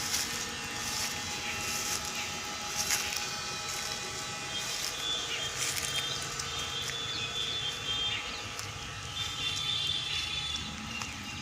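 Outdoor garden ambience with short chirping calls repeating through it.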